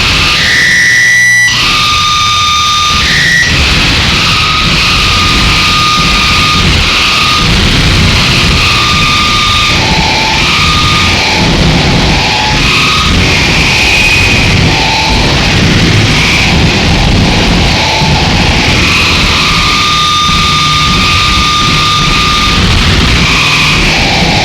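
Harsh noise wall: a dense, distorted wall of electronic noise with a heavy low rumble, crossed by shrill feedback tones that come and go, some held for a couple of seconds. A brief dip in the low end about a second in.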